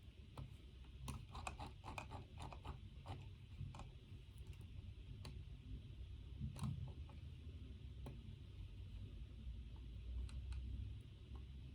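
Scattered small clicks and taps from desk work, a quick run of them in the first few seconds and then single ones every second or two, over a low steady room hum.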